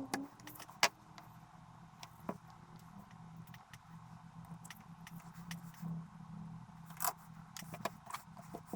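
Small clicks and clinks of tools and electronic parts being handled on a workbench, irregular and sharpest about a second in and near seven seconds, over a steady low hum.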